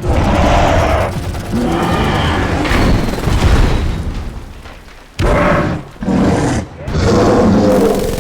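Dense action-film battle sound mix of heavy booms and impacts. The sound fades about halfway through, then comes back as three loud separate bursts.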